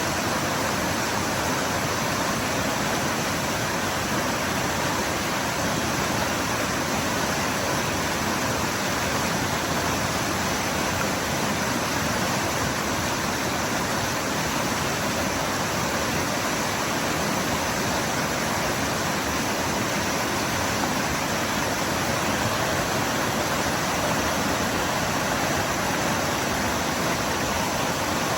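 A waterfall's water pouring and splashing in a steady, unbroken rush.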